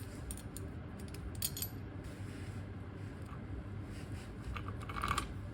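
Light metallic clicks and clinks of small metal parts and hand tools being handled, a few in the first two seconds and a short cluster near the end, over a low steady room hum.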